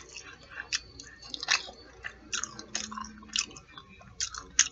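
A person chewing fried food close to the microphone: irregular wet smacks and sharp mouth clicks, a few every second.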